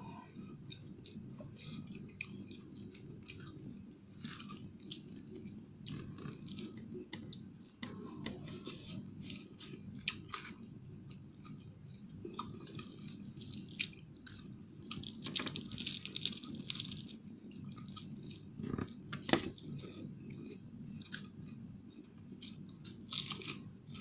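Close-miked chewing and crunching of crispy fried fish, in irregular crackly bites and small clicks, busiest about fifteen seconds in, over a steady low hum.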